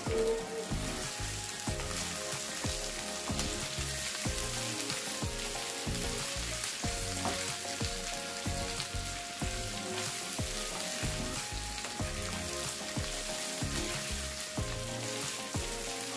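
Shredded chicken, onions and green chillies sizzling as they fry in a non-stick frying pan. A wooden spatula scrapes and taps the pan again and again as the mixture is stirred.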